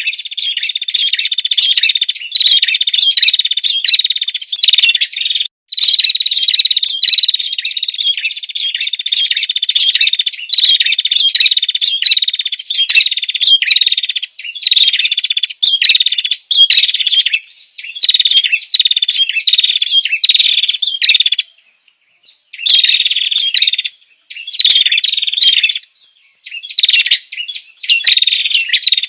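Songbird singing a fast, continuous run of high, rapidly repeated chirps and trills, broken by a few short pauses in the second half.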